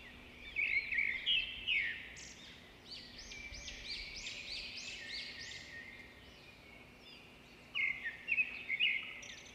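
Birds chirping and singing: many quick, overlapping high chirps, loudest in clusters about a second in and again near the end.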